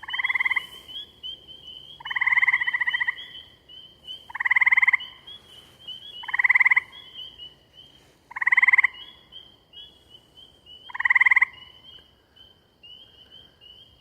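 A gray tree frog close by gives six loud trills, each a rapid pulsed trill lasting under a second, about every two seconds. Behind it a chorus of spring peepers peeps steadily.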